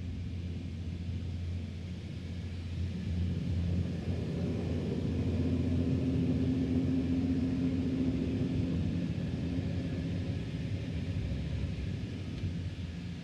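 Automatic car wash equipment running: a steady low hum and rumble with a hiss over it. It grows louder about four seconds in and eases off near the end.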